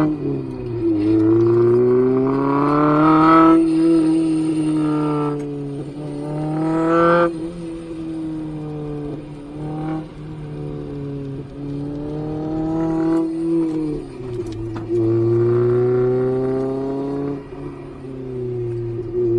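Honda Civic Type R EK9's B16B four-cylinder VTEC engine with a Mugen 4-1 header and twin-loop exhaust, heard from inside the cabin, pulling hard through the gears. The engine note climbs in pitch under throttle and falls back at each upshift or lift, several times over.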